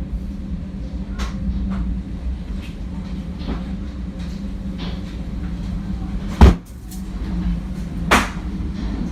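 Steady low rumble of tornado winds with repeated knocks of debris striking, a loud bang about six and a half seconds in and another near eight seconds.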